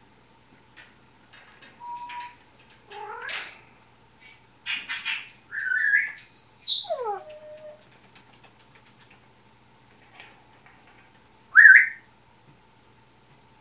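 African grey parrot whistling and chattering: clicks and a run of rising and falling whistles, then one loud, sharp rising whistle near the end.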